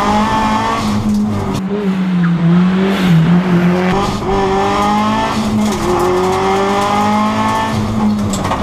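Subaru Impreza WRX STI rally car's turbocharged flat-four engine pulling hard, the pitch climbing and then dropping back with quick upshifts about two, four and six seconds in.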